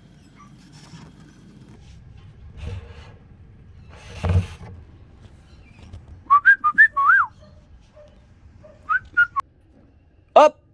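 A cockatiel giving a run of short whistled chirps, then two more, and one louder harsher call near the end. A brief thump or rustle comes about four seconds in.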